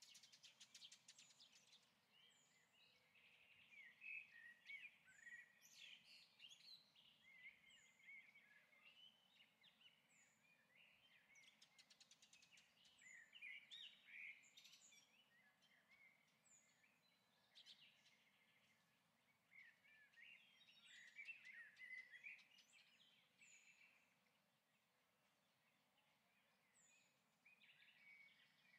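Faint birdsong: small birds chirping and warbling in clusters every few seconds, with brief high chirps between them.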